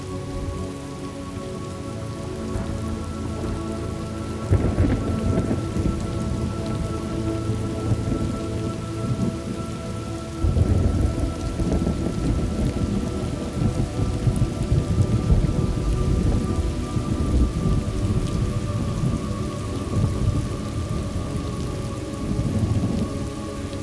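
Thunderstorm: steady rain with thunder rolling in about four and a half seconds in and again, louder, about ten seconds in, each rumble lasting several seconds.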